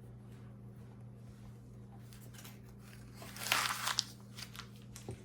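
Knife cutting soft canned biscuit dough into strips, mostly quiet with a few faint clicks and a short scraping rustle about three and a half seconds in, over a steady low hum.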